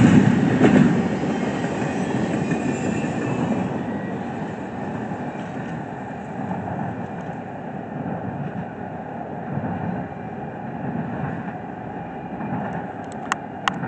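Intermodal freight train's cars rolling along the rails with a steady rumble that fades as the end of the train moves away. Two sharp clicks come near the end.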